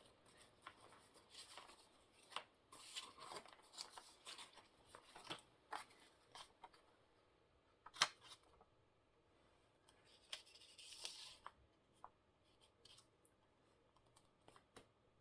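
Faint rustling and crinkling of paper scraps being sorted and handled, with scattered small ticks and one sharper snap about eight seconds in.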